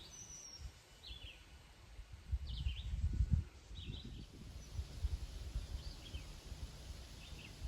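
A bird chirping repeatedly in short high calls, about one a second, over a faint irregular low rumble.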